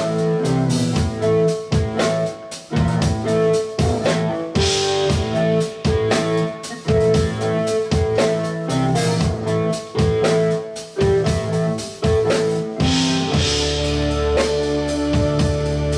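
A live band playing an instrumental piece: held melody notes over regular drum strokes, with a cymbal wash about four seconds in and again near the end, where a low held bass note comes in.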